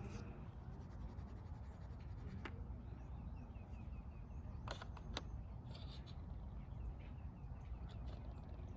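Coloring on paper, a pen or pencil scratching lightly, with three sharp clicks and taps spread through, over a steady low outdoor rumble.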